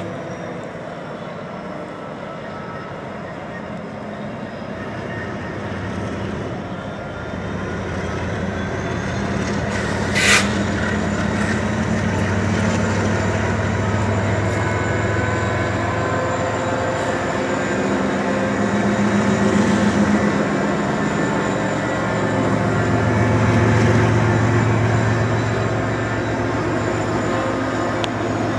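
Diesel freight locomotives passing. A deep engine drone grows louder as the train comes by and swells as each locomotive goes past, with one sharp click about ten seconds in.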